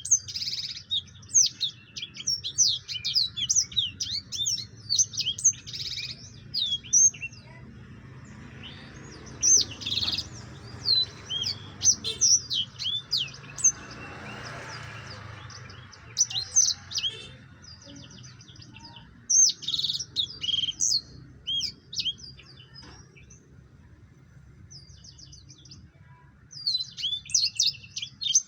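Black-throated canary (blackthroat) singing: rapid runs of high, sweeping chirps and twitters in bursts, with brief pauses between phrases.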